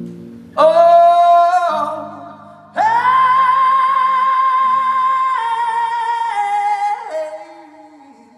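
Live rock music: a single singing voice holds long wordless notes, one shorter and then a long high one that steps down in pitch before fading, over quiet acoustic guitar.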